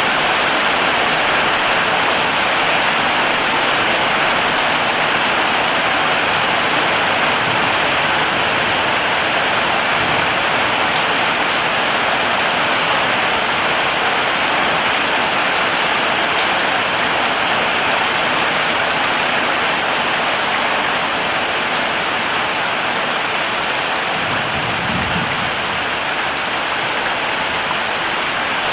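Heavy rain falling steadily, a dense even hiss of many drops, easing slightly over the last few seconds.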